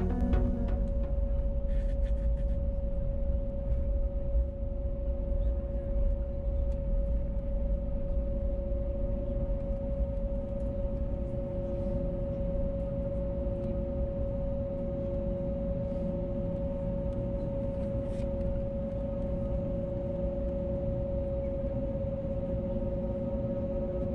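Steady in-flight noise inside an Airbus A321neo's cabin: the low rumble of its engines and the airflow, with a constant hum tone running through it.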